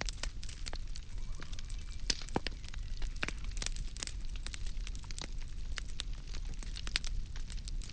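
Wood fire burning, with frequent irregular crackles and sharp pops over a low steady rumble of the flames.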